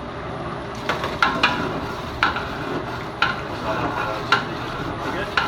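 A metal spoon strikes and scrapes a cooking pot, with sharp clanks about once a second starting about a second in, as chicken gizzards and masala are stir-fried over a steady hiss.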